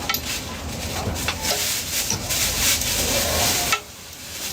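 Steady rasping, scraping noise that stops suddenly about three and a half seconds in.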